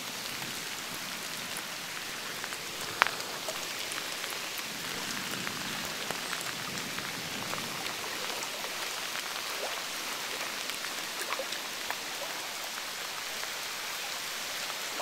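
Heavy rain falling steadily on pavement and floodwater, a dense hiss scattered with small drop ticks. There is one sharp click about three seconds in.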